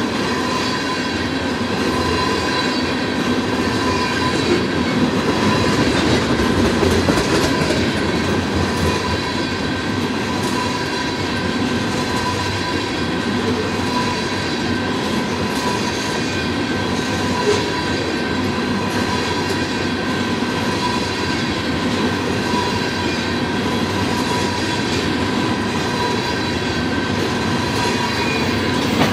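Freight train cars (loaded tank cars, then covered hoppers) rolling past at speed: a steady, loud rumble of steel wheels on rail with clickety-clack from the rail joints. A steady high-pitched ringing tone runs over it.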